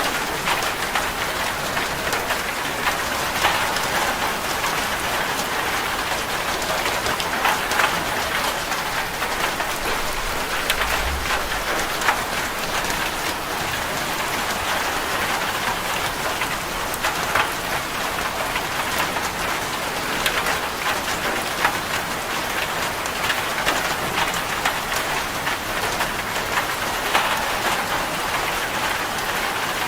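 Steady rain drumming on a corrugated zinc roof: a dense, even patter with many sharp individual drop ticks.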